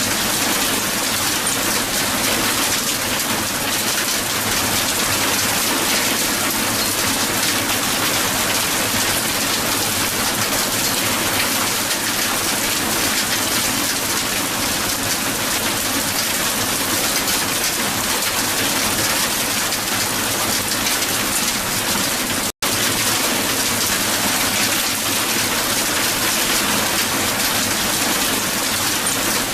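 Hail falling hard and steadily on the ground, a dense, even patter of many small impacts. It cuts out for a split second about two-thirds of the way through.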